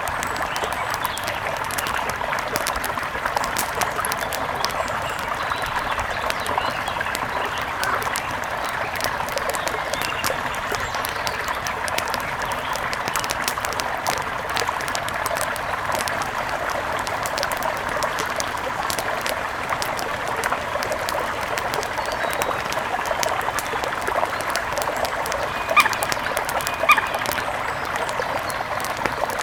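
Mountain river flowing steadily, a constant rush of water with fine burbling and splashing. Two short, louder sounds stand out near the end.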